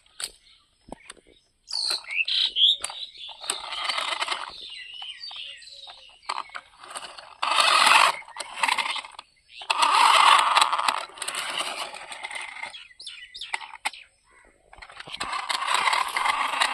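Cheap toy RC monster truck driven in four short bursts, its small electric motor and wheels giving a noisy rush each time. A few falling chirps come just before the first burst.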